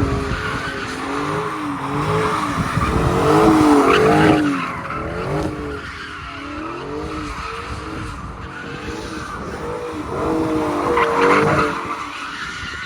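A car spinning its tires: the tires squeal while the engine revs rise and fall over and over. It is loudest about four seconds in and again near the end.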